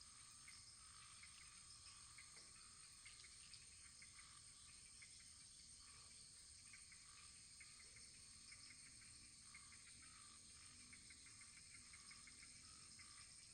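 Faint wood fire in a fireplace crackling: many small irregular pops and ticks over a steady soft hiss.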